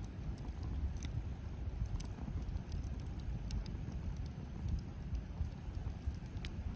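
Wood bonfire crackling, with irregular sharp pops and snaps, over a steady low rumble.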